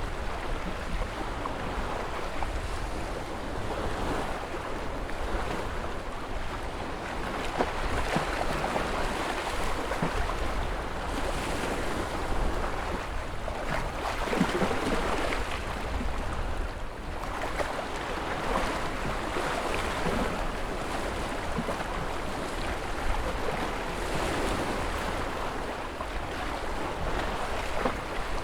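Ocean surf: waves breaking and washing ashore as an unbroken rush of water noise that swells and eases every few seconds, over a low rumble.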